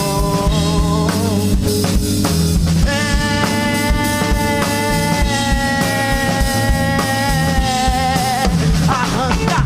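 Live rock band playing between sung lines: drum kit, bass guitar and electric guitars, with a long held lead note from about three seconds in, then bending notes near the end.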